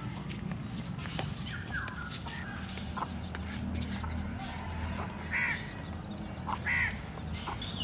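Several short bird calls, some sharp and arched, over a low steady hum.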